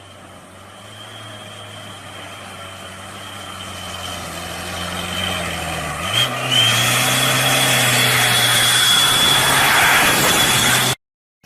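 A motor vehicle engine running with a steady high whine over it, growing louder; about six seconds in the engine note steps up as it revs, then the sound cuts off suddenly near the end.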